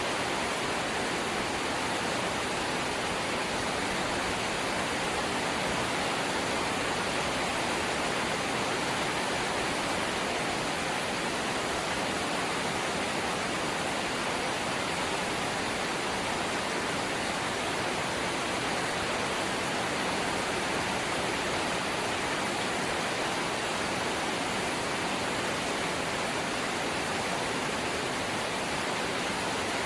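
Steady light rain falling on a kite caught on a power line, an even, unbroken patter.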